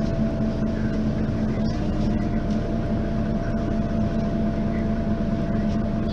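Mercedes-Benz Citaro facelift city bus's diesel engine running steadily: an even low drone with a constant higher tone over it.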